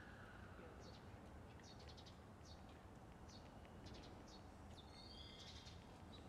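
Near silence with faint, short, high chirps of small birds, repeating every half second or so, and a longer run of chirps about five seconds in.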